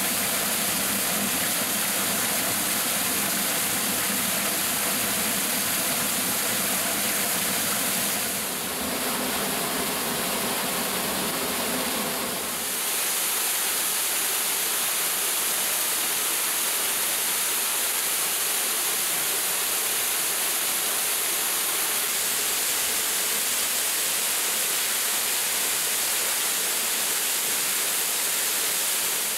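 Waterfall rushing, a steady full-range noise of falling water that shifts in tone twice, about 8 and 13 seconds in.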